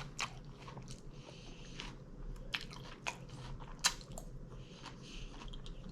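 Close-up chewing of a mouthful of taco salad: irregular mouth clicks and crunches, the sharpest about four seconds in.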